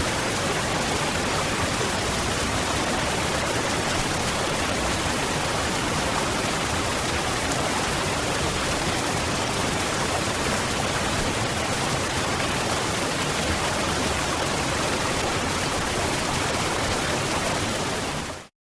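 Waterfall: a steady, even rush of falling water that fades out quickly near the end and stops.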